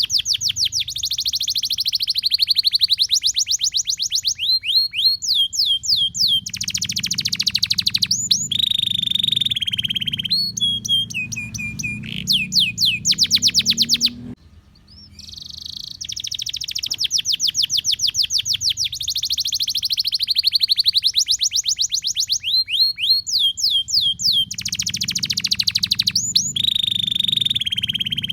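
Domestic canary singing a long, continuous song of high, rapid rolling trills and whistled phrases, over a faint low hum. There is a short break about halfway through, after which the same song sequence starts over.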